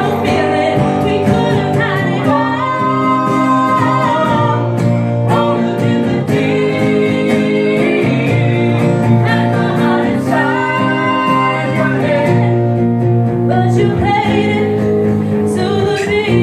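Live singing with guitar accompaniment: a song performed at an open mic, long held vocal notes with vibrato over steady guitar chords.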